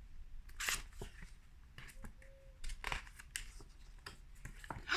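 Soft paper rustles and light handling noises from a picture book being handled, coming in a few short strokes a second or so apart.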